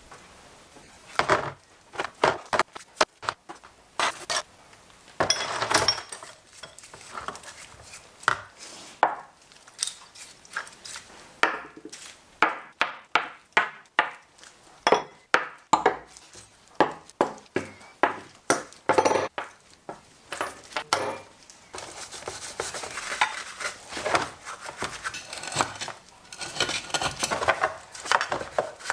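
Small metal parts and hand tools clinking and knocking, with dozens of sharp separate strikes in irregular runs, then a denser stretch of rubbing and rattling near the end.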